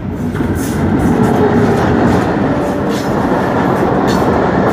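Passenger express train passing close by at speed, a loud steady rumble of wheels on rail with clicks over the rail joints.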